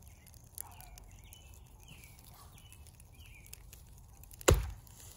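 A bird calling in short falling chirps, repeated several times, over a low outdoor rumble. A single sharp knock about four and a half seconds in is the loudest sound.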